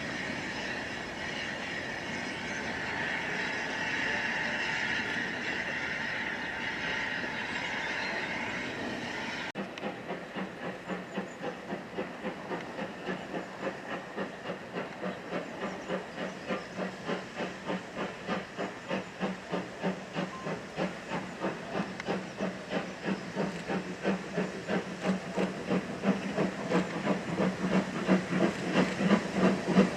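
Steam locomotive hissing steadily. About a third of the way in, its exhaust beats take over: an even chuffing at two to three beats a second, growing louder as the engine draws nearer.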